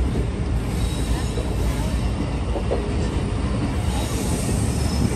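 Passenger train at a station platform: a steady low rumble, with faint high-pitched squealing tones from the wheels or brakes growing near the end.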